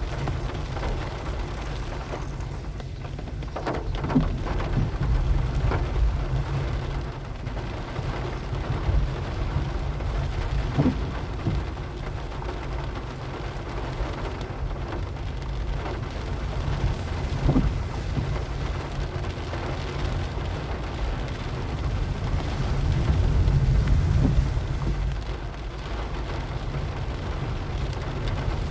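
Steady rain noise over a low rumble, with a few brief knocks spread through it.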